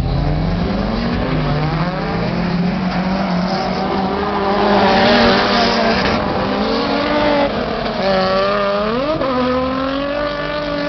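Car engine revving up and down several times, its pitch rising and falling, with a sharp quick rev about nine seconds in.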